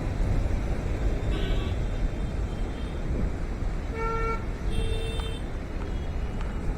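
Road traffic rumbling steadily, with a short car-horn honk about four seconds in and another just after it.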